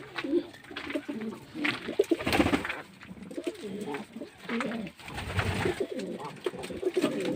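Domestic pigeons cooing in their loft, several calls overlapping one after another, with occasional brief scraping noises.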